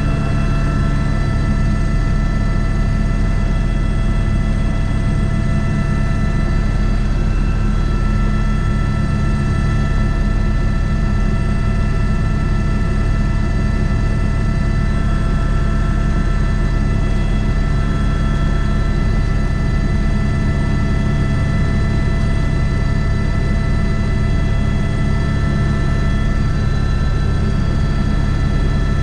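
Airbus H125 single-turboshaft helicopter running steadily in flight. Several steady turbine tones sit over a heavy low rotor rumble with a fast, even beat, and neither changes pitch.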